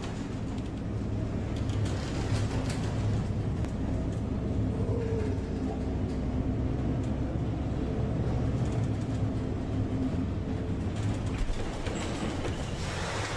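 Steady low drone of a patrol ship's engines while underway, with an even rushing noise over it.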